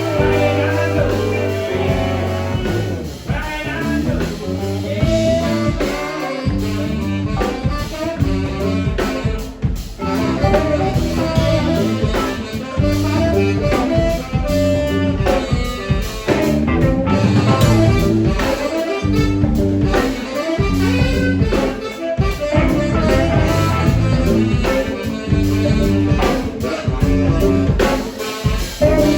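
Live band playing bluesy music, with guitar and drums.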